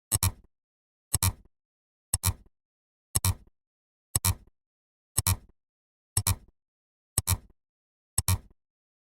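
A short, sharp double click sound effect, repeated nine times at an even pace of about one per second, with silence between the clicks.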